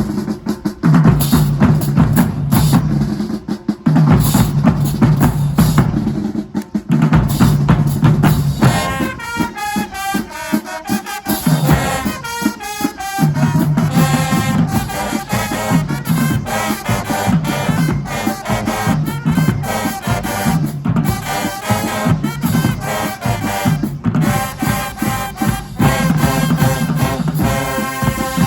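High school marching band playing: drumline hits over repeating low brass notes, with the horn section coming in about eight or nine seconds in and playing through to the end.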